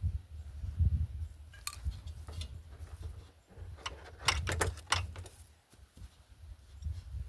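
Hand tools clinking and knocking against metal during suspension work: a few sharp clicks, then a quick cluster of them about four to five seconds in, over a low rumble.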